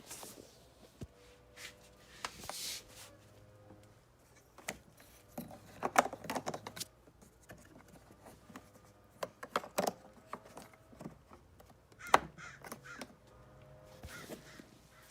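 Scattered plastic clicks, knocks and scrapes of the upholstery tool being pushed onto the hose of a Hoover SteamVac carpet cleaner. There are louder clusters of rattling about six, ten and twelve seconds in.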